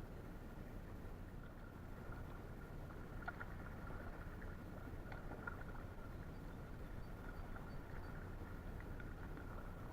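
Paddling a Gumotex Scout inflatable canoe on a river: soft water sounds with a few light knocks a few seconds in, over a low steady rumble.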